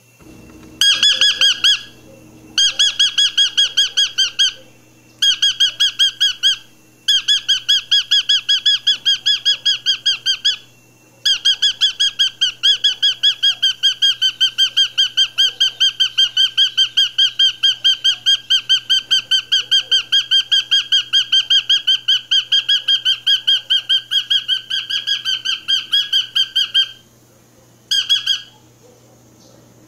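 A bird calling in trains of rapid, evenly repeated high notes, about five a second, broken by short pauses, with one long unbroken run through the middle and a brief burst near the end.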